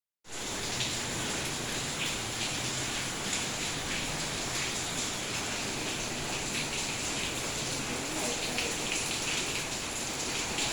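Steady rain falling, a continuous hiss with many small drop hits scattered through it.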